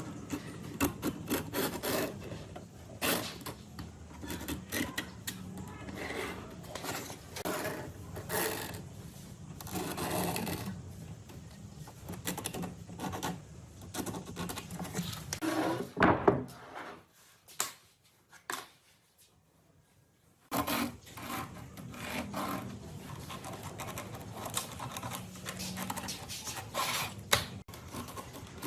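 A hand tool scraping and rubbing on wood in irregular strokes. It stops for about four seconds a little past the middle, then starts again.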